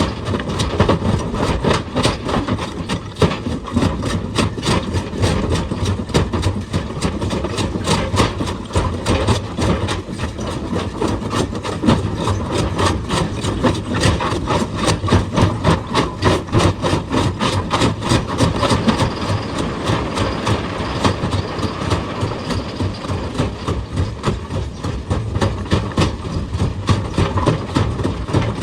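Heavy excavator engine running, with a fast, steady series of knocks from rock being worked.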